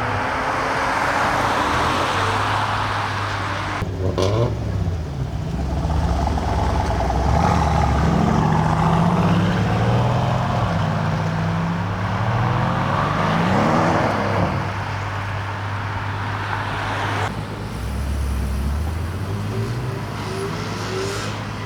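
Car engines revving and accelerating away, one car after another, the engine note rising and falling through the gears.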